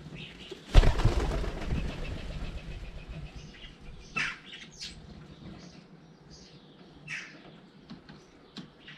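A sudden loud flurry of wingbeats as garden birds take off close to the microphone, fading over a second or two, followed by scattered short chirps from small birds.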